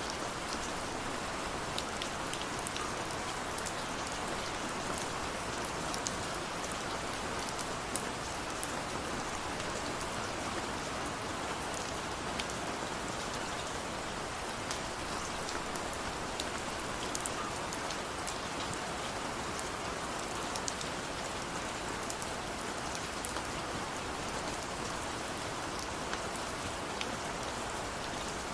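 Steady rainfall with individual drops pattering on a surface, heard as scattered sharp ticks over an even hiss.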